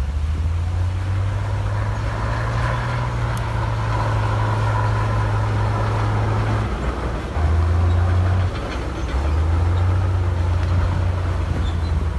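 Heavy diesel engine of a construction machine running steadily under load, its note shifting a little over 7 seconds in, with a short louder stretch before it settles back.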